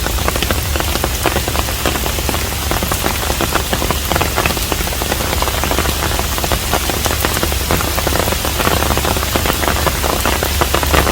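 Steady rain falling on a traditional Korean hanok house, with many separate drop hits heard over a dense, even hiss and a steady low hum underneath.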